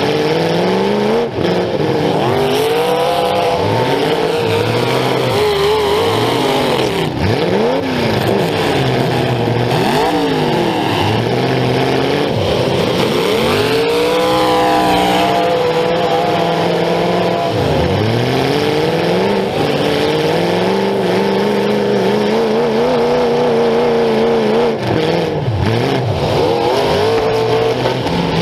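Demolition derby car's engine revving hard, its pitch rising and falling over and over as the throttle is worked, heard loud and close from a camera mounted on the car itself.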